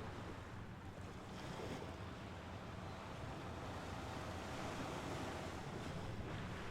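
Mediterranean Sea waves washing on the shore, a steady surf wash that swells and eases gently.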